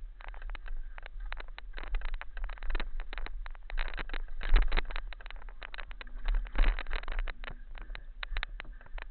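Dense, irregular clattering and knocking over a steady low rumble: rattle and handling noise from moving over a rough forest trail.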